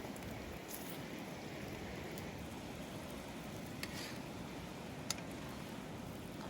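Cooking over a wood fire: a steady sizzling hiss with a few sharp crackles, three of them in the second half.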